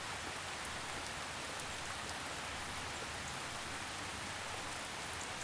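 Steady rain falling: an even soft hiss with a few faint drop ticks.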